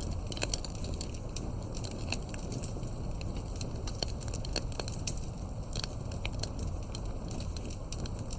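Campfire burning, with irregular sharp wood crackles and pops over a steady low rumble of the flames.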